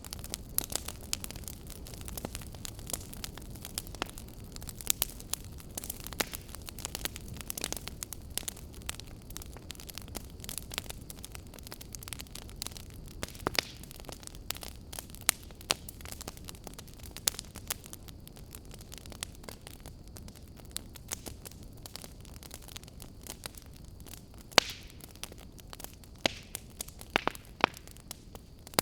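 Wood fire burning in a fireplace: a low steady rumble under irregular crackles and sharp pops, a few of them louder near the end.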